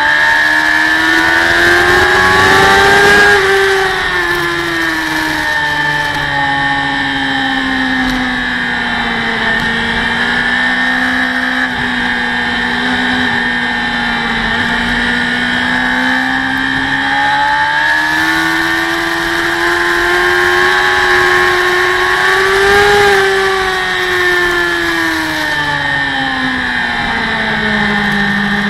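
Racing motorcycle engine at high revs, heard from a camera mounted on the bike, its pitch climbing under acceleration and dropping off into corners twice over, with a long fairly steady stretch in the middle. A steady rush of noise runs under it.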